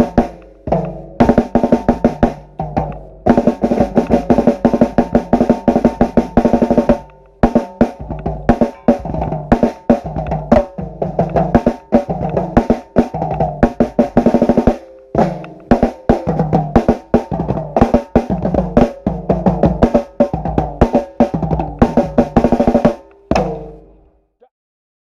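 Drum group playing a fast percussion groove on snare drums, bass drums and tuned toms, with snare rolls and a few short breaks between phrases.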